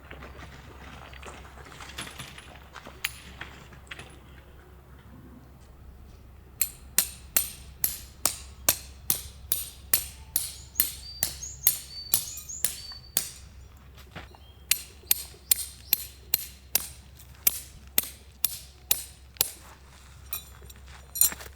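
Metal being struck with a hammer in a steady series of blows, about two a second, each with a short ringing tail, like a tent peg being driven in. The blows start a few seconds in after some soft handling noise, pause once briefly, and stop near the end.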